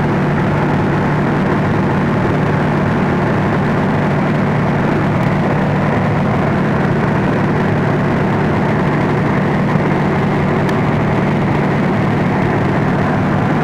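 Stationary train idling at a platform: a steady, unchanging low machinery hum with a broad rushing noise over it.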